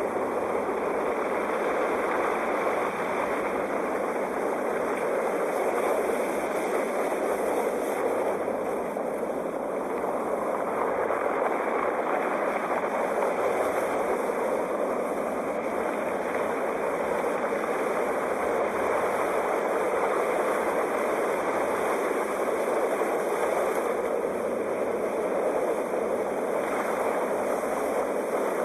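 Sea waves: a continuous rushing surf whose level swells and eases only slightly.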